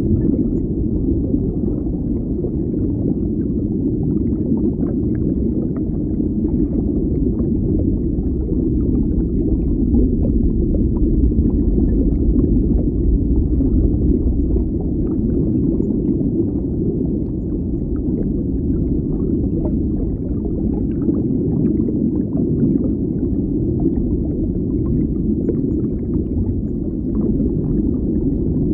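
Underwater ambience: a steady low rumble of moving water that swells and eases slowly, with faint scattered ticks and crackles above it.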